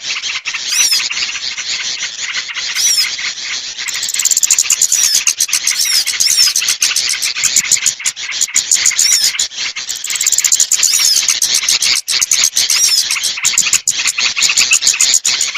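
Small birds chirping and twittering in a dense, continuous chorus of rapid high ticks and short curved whistled notes: a bird-lure call recording played to draw small birds down.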